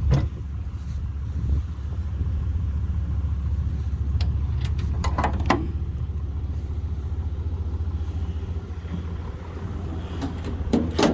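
Ram 3500 pickup's diesel engine idling steadily, with a few short clunks over it.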